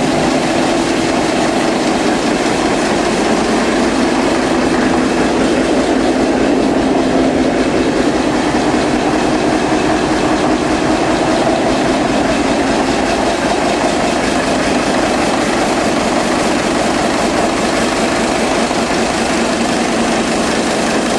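1944 Blackstone EPV five-cylinder diesel engine running steadily, a loud continuous beat of firing cylinders.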